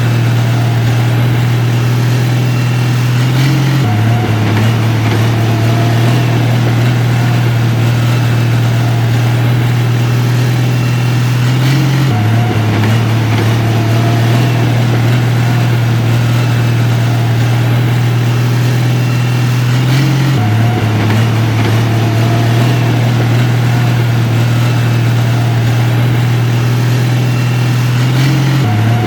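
Heavy construction-machine diesel engine running steadily with a low drone, its pitch dipping slightly and recovering about every eight seconds in a regular repeating pattern.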